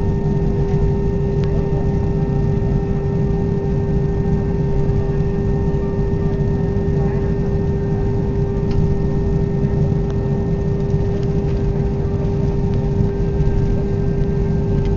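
Airbus A320 cabin noise on the ground after landing: a steady low rumble with a constant mid-pitched hum.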